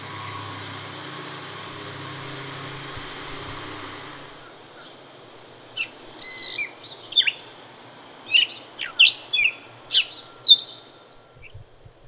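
A songbird singing several loud phrases of quick, steeply falling notes, starting about six seconds in. Before it, a steady rushing noise with a low hum fades out about four seconds in.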